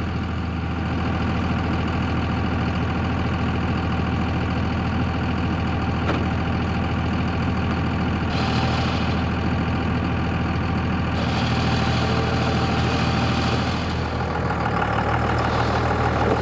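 Dodge Ram pickup engine running steadily at idle during a mud recovery. About eight seconds in, a hissing layer joins for about three seconds.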